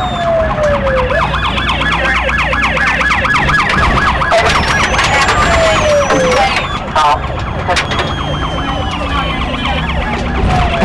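Several police car sirens sounding at once. One runs in a fast yelp. Another has a slower wail that falls in pitch and jumps back up about every five seconds.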